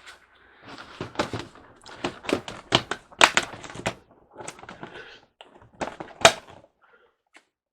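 Handling noise: a quick, irregular run of clicks and knocks, with two loudest knocks about three and six seconds in.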